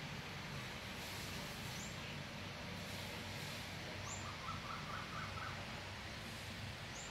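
Birds calling over a steady outdoor background: a short, high rising chirp repeats about every two and a half seconds, and a quick run of about six lower notes comes about four seconds in.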